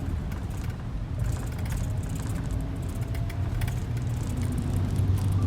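Bus engine and road noise heard from inside the passenger cabin: a steady low rumble with light rattling throughout.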